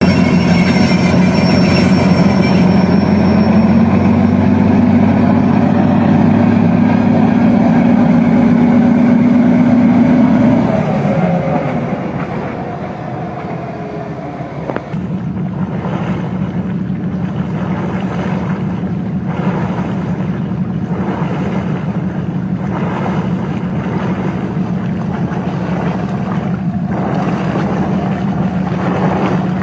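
Train running past: a loud, steady engine drone for about the first ten seconds that fades as its pitch slides down, followed by a steady rumbling hum with repeated knocks.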